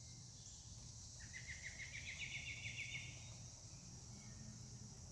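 Faint steady chirring of insects with a bird's rapid trill of short chirps, rising slightly in pitch, starting about a second in and lasting nearly two seconds.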